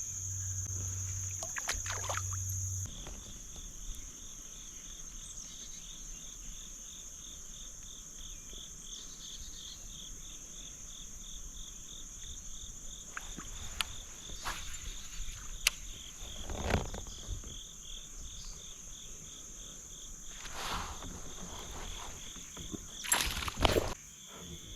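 Insects singing: a steady high buzz for the first few seconds, then an evenly pulsed chirping that goes on for the rest, with a few knocks and clicks over it.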